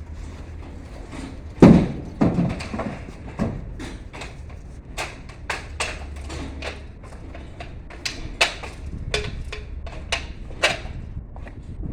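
Irregular knocks and clicks from hands-on work, with a heavy thud a little under two seconds in, over a low steady hum.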